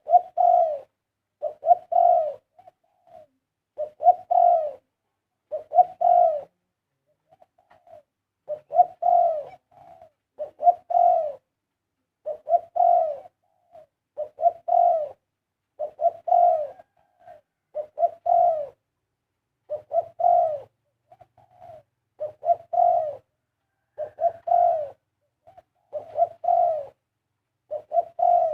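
Spotted dove cooing repeatedly, a short multi-note coo phrase about every two seconds.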